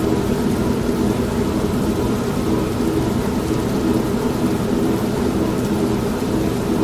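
An old manual washing machine running steadily, as a low even hum, mixed with the steady hiss of rain and a low rumble of thunder.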